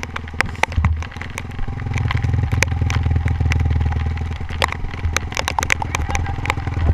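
Honda CRF450R dirt bike's single-cylinder four-stroke engine running at low revs, getting louder about two seconds in, with many sharp clicks and clatter over it.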